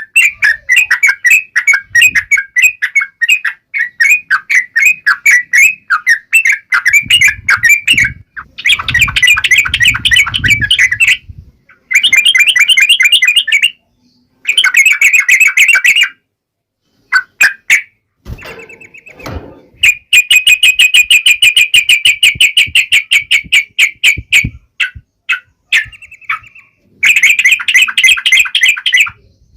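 Yellow-vented bulbul (trucukan) singing in loud bouts of fast, chattering trills, broken by short pauses.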